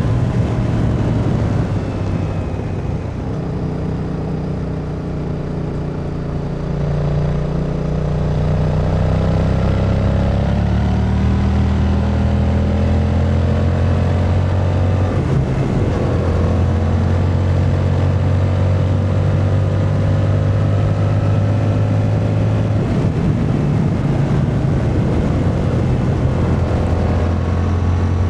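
Yamaha MT-07's 689 cc parallel-twin engine running under way, its pitch climbing slowly for several seconds, a brief dip about halfway, then holding a steady pace.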